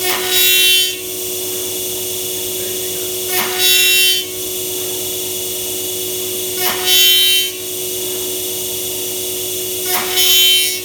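5-axis CNC router spindle whining steadily while trimming thermoformed plastic, with the cutter biting in for four short, louder, high-pitched bursts about every three seconds.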